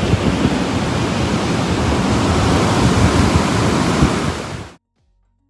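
Storm wind and rough sea surf, with gusts buffeting the microphone. The sound cuts off abruptly near the end.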